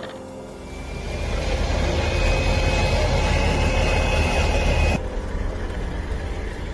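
Tractor engine running steadily with a low rumble and a faint steady whine, the sound changing abruptly about five seconds in.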